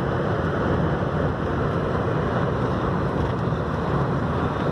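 Steady rumble inside a truck's cab, the engine and road noise mixed with blizzard wind blowing against the truck.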